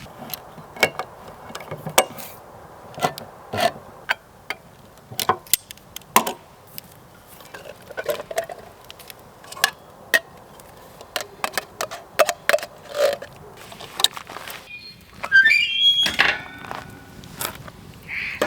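Wood fire crackling, with irregular sharp pops and snaps. A brief high whistling sound comes near the end.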